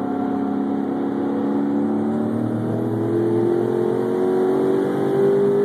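Twin-turbocharged 392 stroker Hemi V8 of a Dodge Charger at full throttle in a highway pull from about 80 mph, the engine note climbing steadily as the car accelerates.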